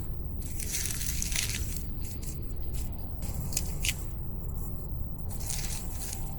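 Irregular crackling and rustling, as of material being handled or crushed, over a steady low background noise.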